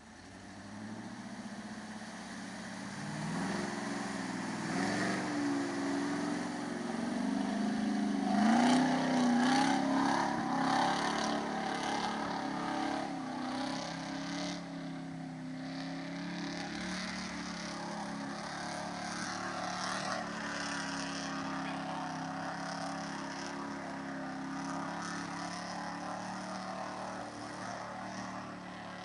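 An old 4x4 pickup truck's engine revving up, loudest about eight to ten seconds in, then pulling steadily with a wavering pitch as the truck is driven off-road.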